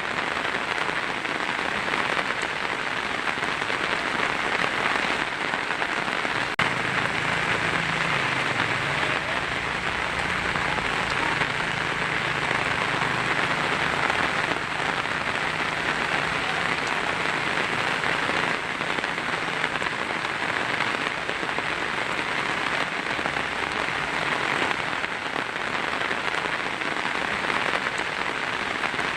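Heavy rain drumming steadily on a tin roof, a dense, even patter. A low rumble sits underneath from about seven seconds in until about nineteen seconds.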